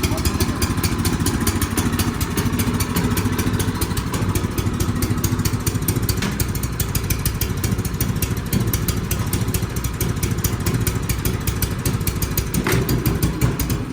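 Snowblower engine running steadily with a fast, even firing beat while clearing snow, with a single knock near the end.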